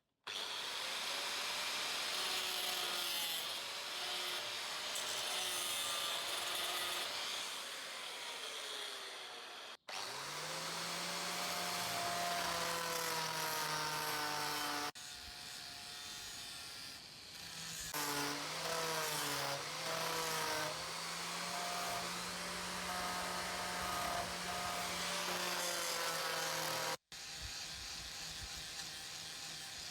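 A power tool cutting or grinding into material, its motor pitch dipping and recovering under load, across several short cut-together shots.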